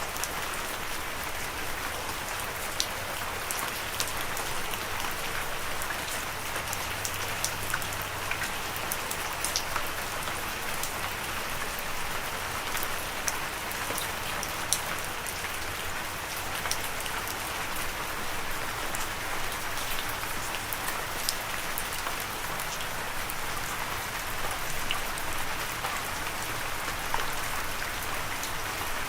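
Steady rain falling on a surface, an even hiss with scattered sharper drop hits throughout.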